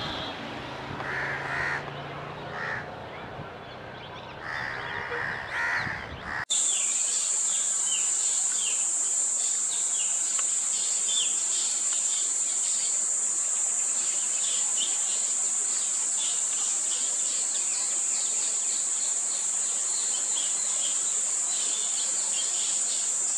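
Wild birds calling. For the first six and a half seconds there are a few pitched calls. Then the audio cuts suddenly to a loud, steady high-pitched buzz with many short bird chirps over it.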